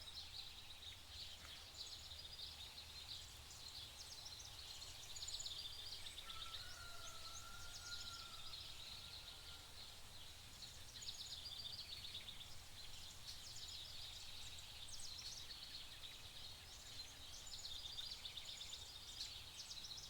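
Forest ambience: many small birds chirping and singing throughout, over a steady low rumble. A longer, lower wavering whistle runs for a few seconds about a third of the way in.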